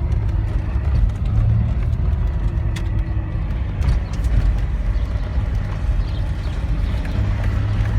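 Nissan 300ZX twin turbo's V6 engine running, heard from inside the cabin as a steady low rumble.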